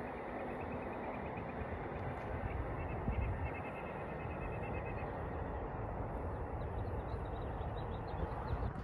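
Steady rumble of a passenger train running away down the track after passing. Two faint runs of quick, high ticks sit on top, one a couple of seconds in and another near the end.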